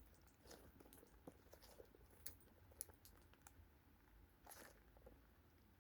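Faint, scattered crackles and small clicks from a soft foam squishy toy being handled and squeezed.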